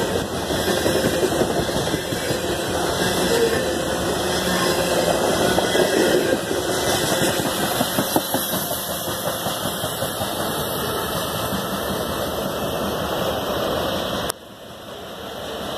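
Loaded covered hopper cars of a freight grain train rolling past close by: a steady rumble and rattle of steel wheels on the rails, with a few sharp knocks about seven to eight seconds in. Near the end the sound drops suddenly to a much quieter rumble.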